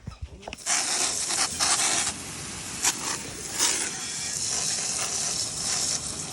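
Hose spraying water over a dirt bike to rinse off the soap: a loud, steady hiss of spray that starts about a second in and surges and dips as the stream moves across the bike.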